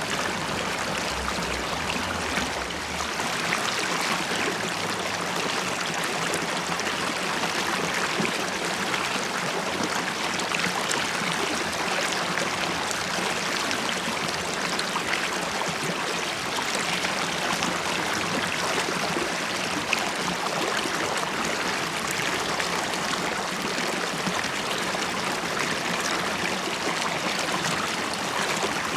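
A river stream flowing and bubbling over stones, a steady dense rush of water with small splashes and gurgles.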